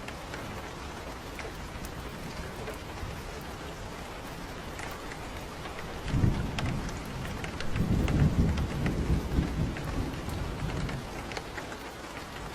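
Steady rain falling, with scattered drops ticking close by. About halfway through, low thunder rumbles in, swells, and fades away a few seconds later.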